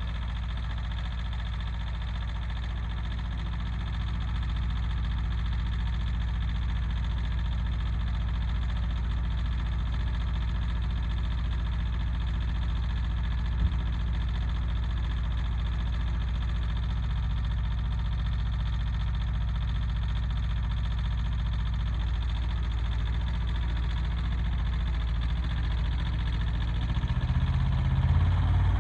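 Yanmar YM146 compact tractor's diesel engine running steadily while the tractor is driven, with one sharp knock about halfway through. The engine note rises and gets louder near the end.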